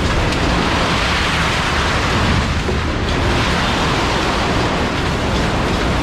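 Industrial two-ram baler running while it processes aluminum cans: a loud, steady rushing noise.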